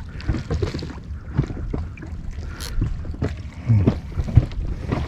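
Water sloshing and splashing against a small inflatable boat, with irregular knocks and handling noises.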